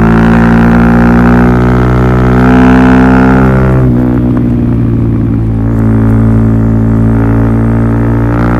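Suzuki DR-Z400SM single-cylinder four-stroke engine running loud through a Yoshimura full exhaust system. Its pitch climbs slowly for about four seconds, then drops away and settles to a steadier, lower note.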